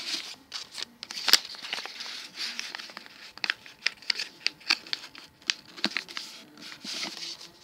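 Sheet of A4 paper being folded and creased by hand into an origami flapping bird: irregular crinkling and sharp crackles as the paper is bent and pressed, loudest about a second in.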